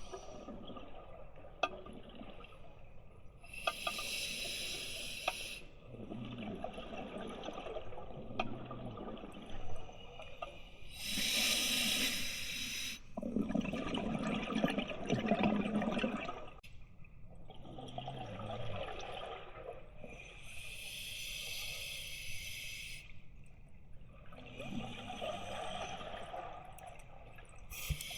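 Scuba diver breathing through a regulator underwater. Each breath is a hissing inhale followed by a longer rush of exhaled bubbles, repeating about every eight seconds.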